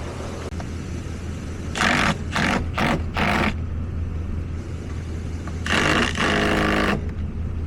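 A vehicle engine running steadily, with four short, loud bursts of mechanical noise about two to three and a half seconds in, then a longer one for about a second near the end.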